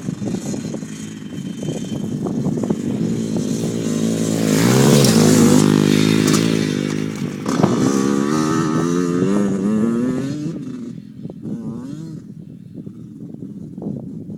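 A dirt bike engine revving as the bike comes past close by. The revs climb steeply, and there is a sharp knock about halfway through. The revs climb again, then the engine fades away toward the end.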